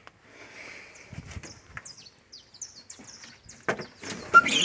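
Small birds chirping, a run of short, quick falling chirps, with scattered knocks and a louder clatter near the end as someone climbs the tractor's steps onto the operator's platform.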